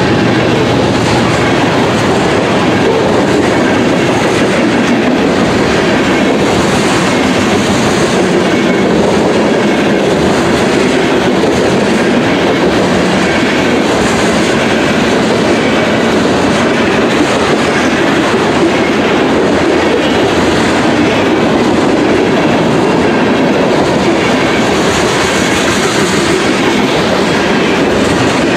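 Freight train cars rolling past at close range, covered hoppers then tank cars, with steady, loud wheel-on-rail noise and the clickety-clack of steel wheels over the rail joints.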